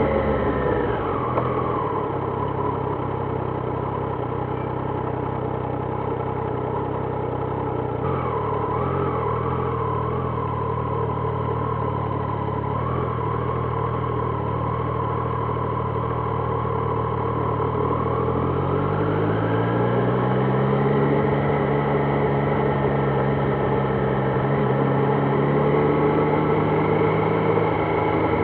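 Triumph Trident 660's inline three-cylinder engine, heard from the rider's seat. The revs drop in the first couple of seconds as the bike slows, and it runs at low revs for a long stretch. About eighteen seconds in, the revs climb as it pulls away, then hold a higher steady note.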